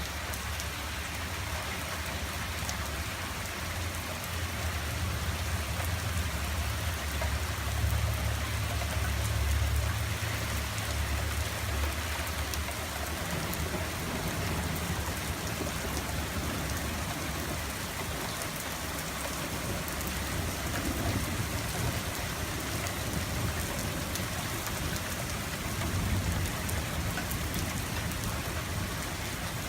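Steady rain falling and pattering on surfaces during a thunderstorm, with a low rumble of distant thunder that swells a few seconds in, is loudest around the middle of the first half, and fades, and a smaller rumble near the end.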